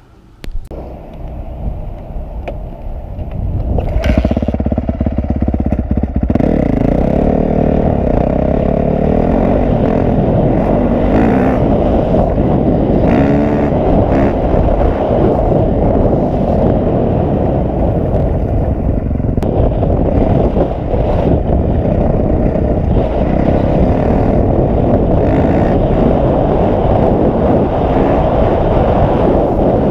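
Honda CRF450R's single-cylinder four-stroke engine running while being ridden, mixed with rushing noise. The sound builds over the first few seconds and then stays loud and steady.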